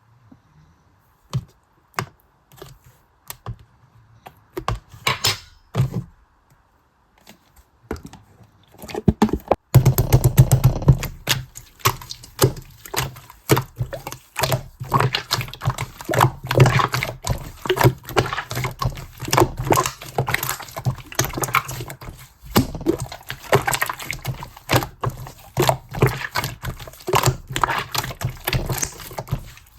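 Clear yellow slime being squeezed and kneaded by hand, giving sticky clicks and pops. For the first nine seconds or so there are only a few scattered pops. From about ten seconds in the squishing and crackling turns dense and continuous.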